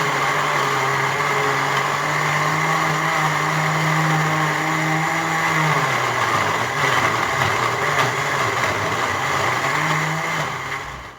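Electric blender running steadily, blending tomatoes, garlic and ginger into a paste; its motor pitch drops a little a little over halfway through, and it cuts off abruptly at the end.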